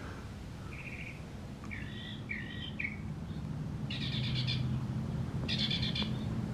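Birds chirping outside a tent at dawn: a few short chirps, then two bursts of rapid high notes about four and five and a half seconds in. Under them is a faint low hum, thought to be a freeway miles away.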